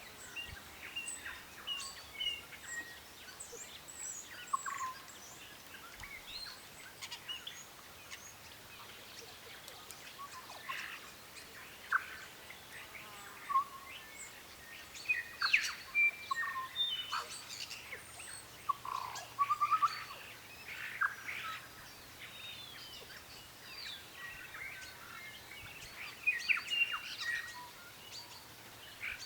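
Many small birds chirping and calling together, short varied notes and whistles overlapping.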